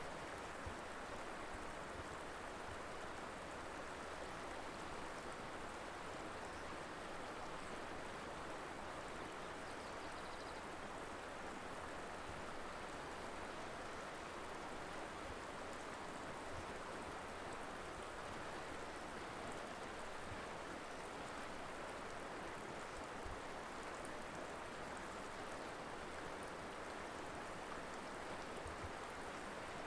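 Colorado River flowing over rocks: a steady rushing of water with no change.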